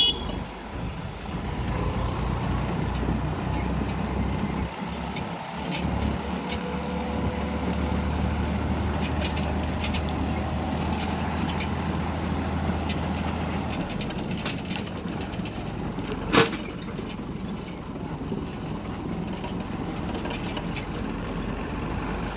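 Tractor diesel engine running steadily under a continuous low rumble, with one sharp knock late on.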